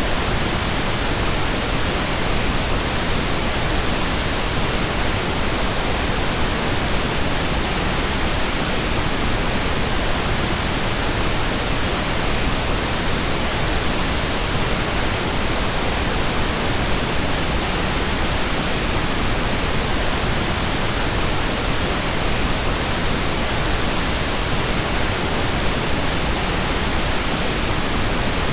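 Steady pink noise: an even, continuous hiss across the whole range, with no change or events.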